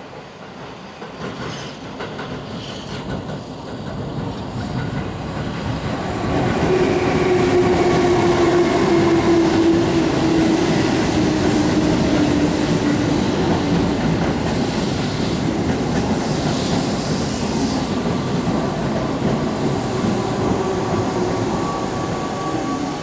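Keihan 8000 series electric train running through the station at speed. Its wheels clatter over rail joints under a steady running hum that drifts slightly lower in pitch. It grows louder over the first several seconds, then holds.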